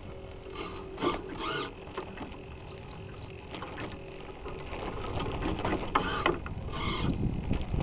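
Small geared servo motors aboard a radio-controlled sailboat whirring in several short bursts: about a second in, then twice near the end. A faint steady hum runs underneath.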